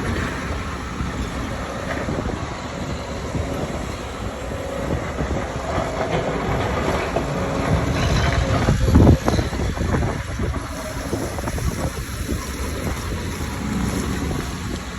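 Liebherr R924 excavator digging in chalk: its diesel engine and hydraulics running under load, with clanks and scraping from the bucket and machine. A loud thump about nine seconds in.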